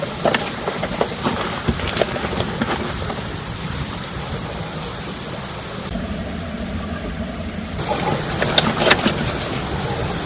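Heavy rain falling steadily, with single drops striking close by as sharp taps. The high hiss dulls for about two seconds midway, then returns.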